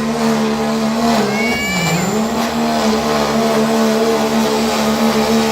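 Diesel pickup truck engine running hard under load, pulling a sled, with a steady high note. The pitch sags about a second and a half in as the engine bogs, then climbs back. A brief high whistle sits over the sag.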